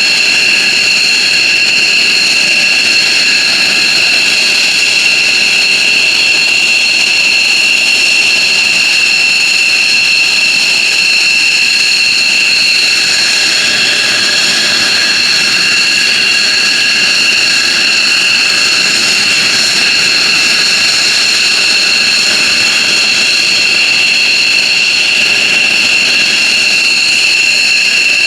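F-15J Eagle's twin Pratt & Whitney F100 turbofan engines running steadily on the ground: a loud, constant high-pitched whine of several tones over an even rush of jet noise.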